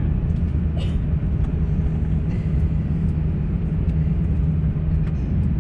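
Steady low rumble inside the cabin of an Airbus A350-900 on the ground, with a few faint clicks.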